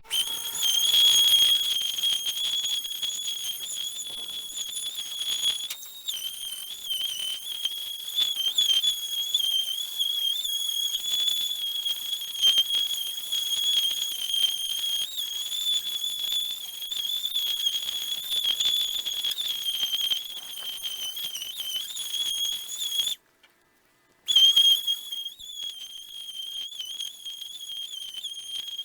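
Electric wood sander running on the truck bed's painted metal, scuffing it for paint: a steady high-pitched whine. It cuts out for about a second near the end, then starts again.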